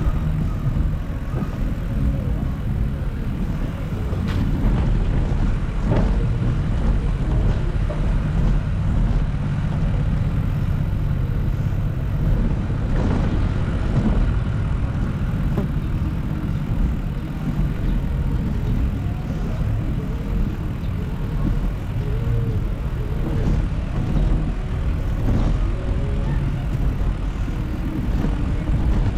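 City street traffic heard from a moving bicycle: a steady low rumble of passing cars and motorbikes, with short engine and horn-like tones here and there.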